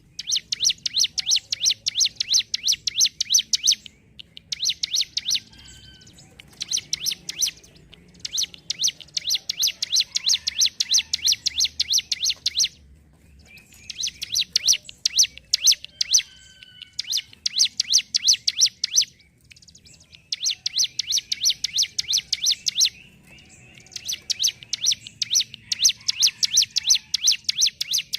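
Ciblek gunung, a prinia, singing its rapid 'ngentrok' song: fast runs of sharp, evenly repeated ticking notes in bouts of a few seconds, broken by short pauses.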